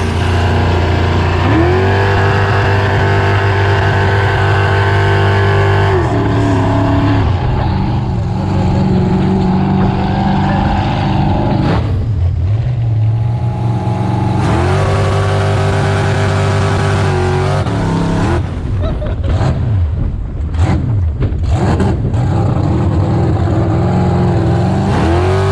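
Engine running and being revved: it rises and holds at high revs for several seconds, drops back, then revs and holds again, with quick up-and-down blips in between.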